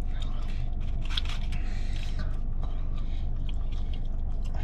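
A person chewing a mouthful of a dry, hard fried chicken sandwich, with irregular soft crunches and mouth noises. A steady low hum runs underneath.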